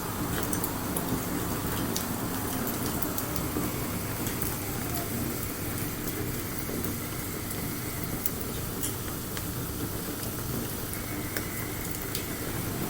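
Wood bonfire burning, with a steady rushing hiss and scattered small crackles and pops from the burning wood.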